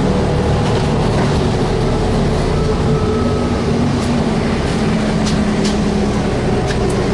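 Inside a VMZ-5298.01 trolleybus under way: steady running and road noise with the hum of the electric drive, its pitch shifting slightly. A few light clicks or rattles come in the second half.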